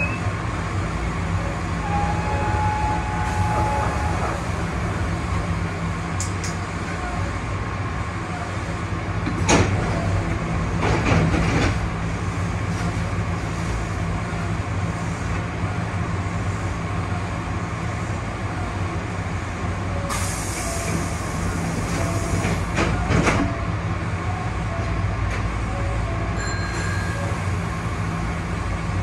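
Hankyu 5100 series electric train running on the line: a steady low hum of motors and wheels under the rumble of the car, with a few sharp clacks from the wheels about a third of the way in and again later on.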